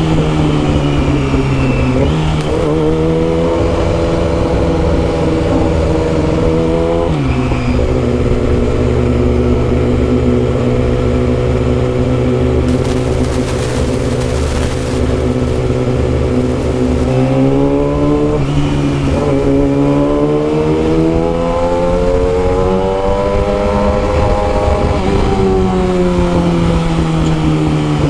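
Yamaha R6's 600cc inline-four engine with a custom exhaust, heard while riding. The pitch steps down about two and seven seconds in, holds steady for about ten seconds, then jumps up, climbs and falls again near the end.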